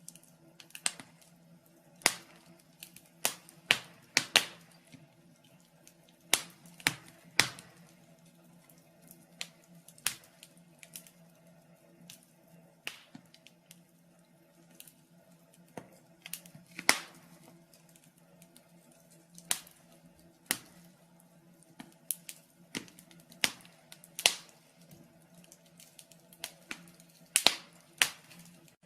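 Wood fire burning in a fireplace, crackling with irregular sharp pops and snaps, over a faint steady low hum.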